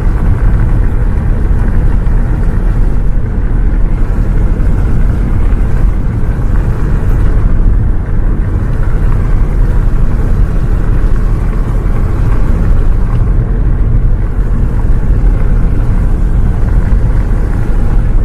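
Loud, steady low rumble of a bus on the move: engine and road noise.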